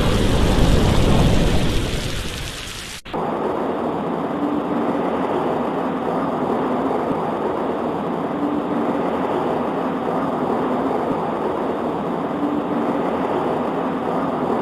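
A roll of thunder rumbling and fading over the first three seconds, then an abrupt cut to a steady patter of rain on a window.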